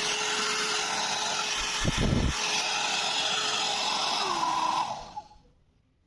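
Vega Insta Glam 1000 W hair dryer running with a steady blowing whir, then switched off about four and a half seconds in, its whir falling in pitch as it winds down to silence. A brief low thump about two seconds in.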